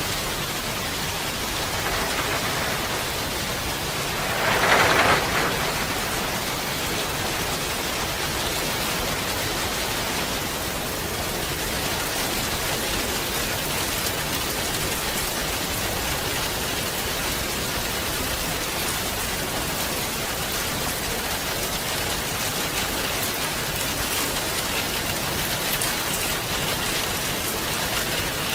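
Steady rain falling, an even hiss of drops on surfaces, with a brief louder swell about five seconds in.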